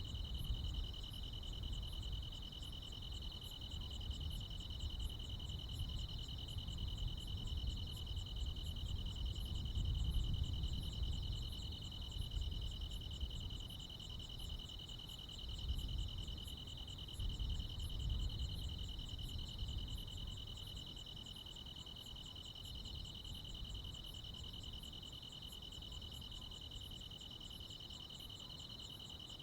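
A night chorus of crickets and other insects, a steady high shrill trill with a faster pulsing chirp above it, over a low rumble.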